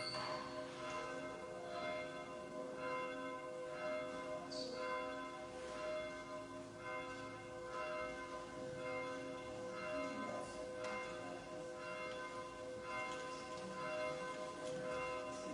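Church bells ringing: repeated strokes whose tones hang on and overlap, so the ringing never dies away between them.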